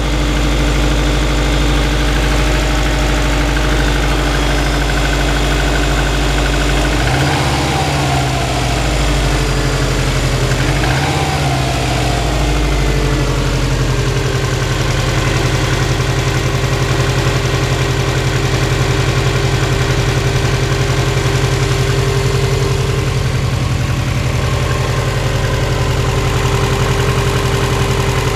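2002 Subaru Impreza WRX's turbocharged 2.0-litre flat-four idling cold, with the piston slap the owner is recording. The engine speed rises and falls briefly twice, about seven and eleven seconds in, then settles back to a steady idle.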